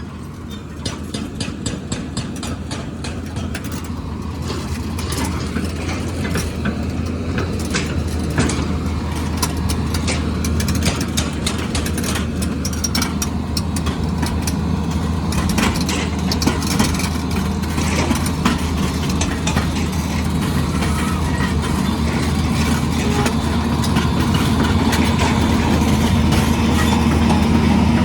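A heavy construction machine's engine running steadily and growing gradually louder, with frequent sharp metallic clicks and clanks over the drone.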